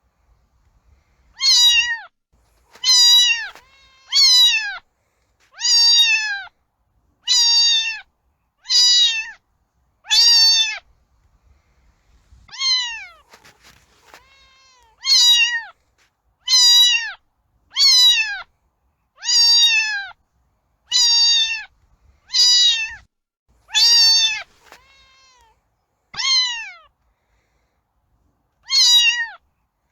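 A cat meowing over and over, one short meow about every second and a half, each falling in pitch, with a pause of a few seconds midway.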